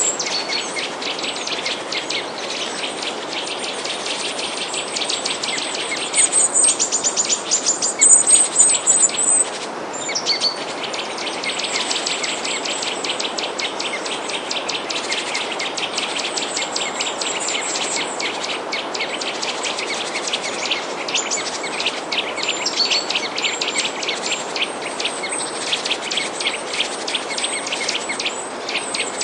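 Small birds chirping and twittering in a dense, fast chorus over a steady soft hiss. About six seconds in comes a louder, higher run of chirps lasting some three seconds.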